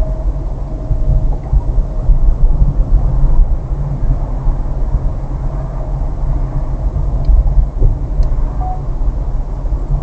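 Car interior noise while driving: a steady low rumble of engine and road.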